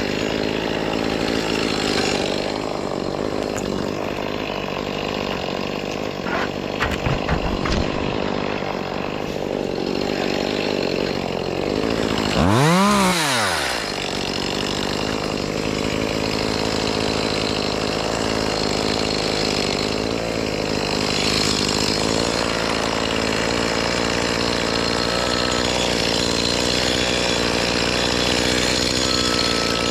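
Small gas engine of tree-work power equipment running steadily. It revs up and back down once about halfway through, and a few sharp knocks come earlier.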